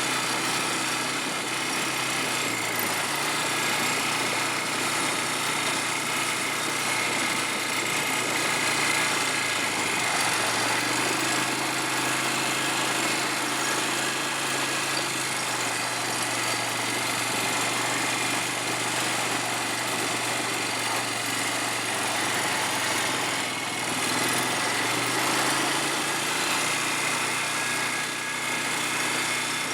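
Small ATV engine running steadily while riding, its pitch shifting up and down a few times as the throttle changes, over a steady rush of noise.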